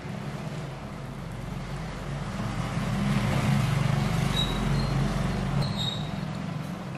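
A motor vehicle's engine rumbling, growing louder about halfway through and easing off toward the end.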